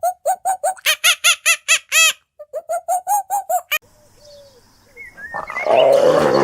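A rapid run of short, pitched animal calls, about five a second, that stops abruptly. A moment later a loud, rough, low animal growl builds up, with a few high chirps over it.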